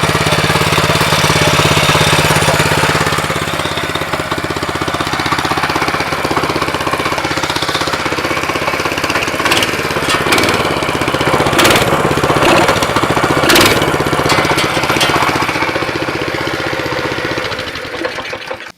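Baja minibike's small single-cylinder engine running steadily at idle just after a cold pull-start on choke, with a few sharp knocks around the middle, then cutting off suddenly near the end.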